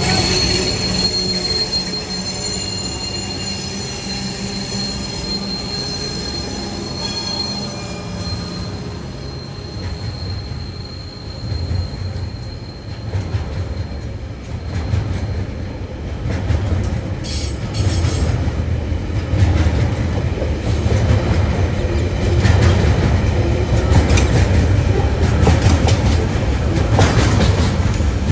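TasRail TR-class diesel locomotives running as they pass close by, with a high steady squeal that fades out about halfway through. A long string of loaded container wagons then rumbles past, the wheels clicking over the rail joints, growing louder toward the end.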